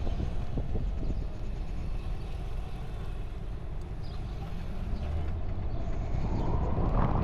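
Ride on a 96-volt electric motorcycle: steady wind and road rumble, with a whine that comes up about five seconds in and grows louder toward the end.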